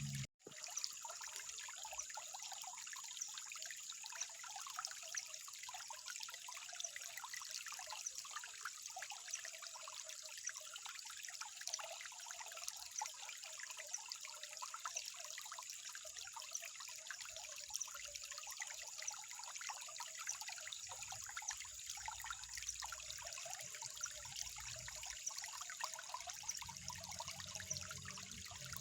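Water trickling steadily, with many small quick splashes and gurgles, briefly cut out for a moment just after the start.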